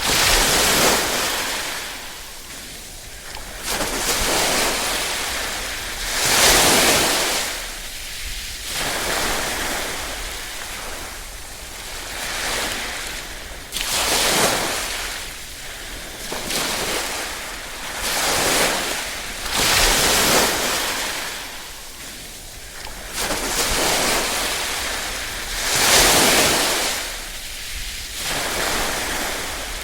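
Small waves washing gently onto a shore, each one swelling and fading every two to three seconds.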